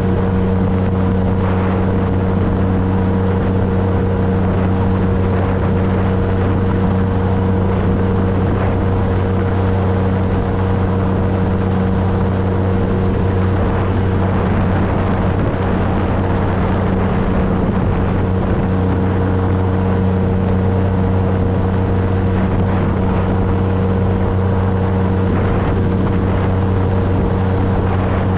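2013 Triumph Trophy SE's 1215 cc inline-triple engine running at a steady cruise, its even engine note under a constant rush of wind and road noise.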